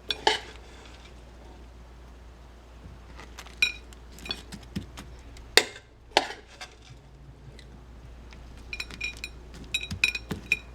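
Metal tablespoon clinking and scraping against a plastic egg mold and plate while scooping sticky birdseed. The clinks are scattered, with a quick run of them in the last two seconds.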